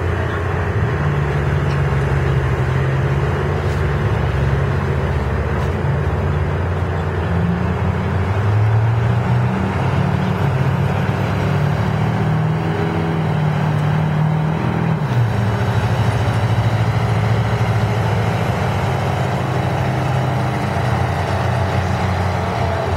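Loud truck engine running at high revs under load in a truck pull. Its pitch wavers and climbs through the middle, then drops abruptly about fifteen seconds in and holds steady.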